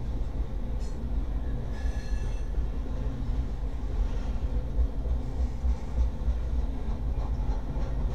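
Loaded-style coal hopper cars of a Norfolk Southern freight train rolling past, making a steady low rumble of steel wheels on rail. A brief high squeal from the wheels comes about two seconds in.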